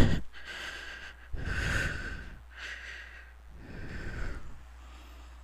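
A person breathing close to the microphone, about four breaths a second or so long each, over a low steady hum.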